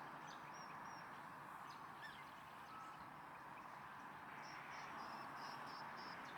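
Faint wetland ambience: small birds chirping, with a quick run of about six short high notes in the second half, over a steady distant hiss.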